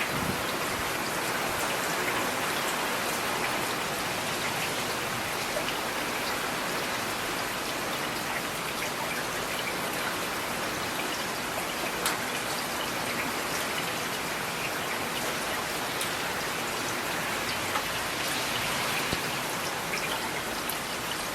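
Steady rain falling: an even hiss of drops on a surface, with an occasional louder single drop ticking out, most clearly about halfway through.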